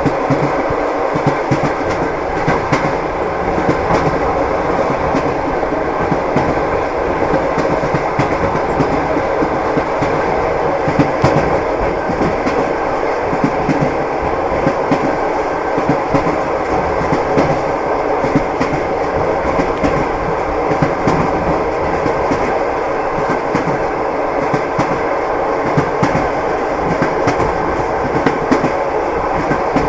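Passenger train wheels clattering over the rail joints, heard from inside a moving carriage: a steady rumble with frequent sharp clicks.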